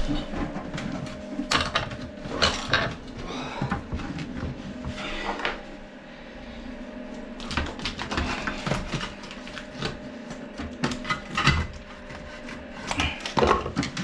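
Irregular knocks, taps and scrapes of hand tools working at a toilet pan and its boxing.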